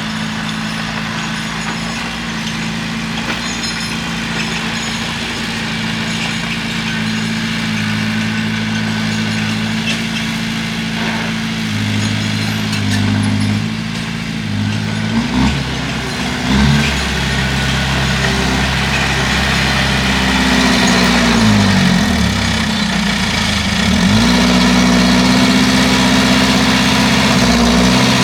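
Bulldozer's diesel engine running, its pitch dropping and climbing back a few times in the second half.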